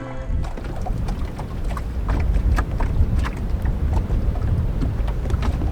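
Wind buffeting the microphone as a steady low rumble, with scattered light clicks and knocks throughout.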